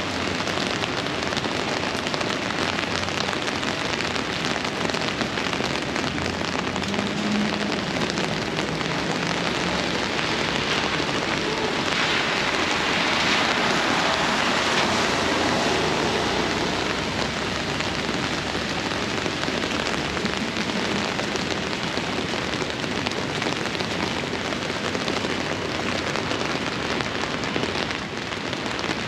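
Downpour of rain falling steadily, swelling louder for a few seconds around the middle.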